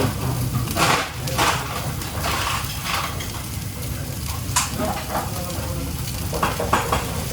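Food frying and sizzling in a commercial kitchen. Several short surges of louder hissing and a sharp clatter about four and a half seconds in sit over a steady low rumble.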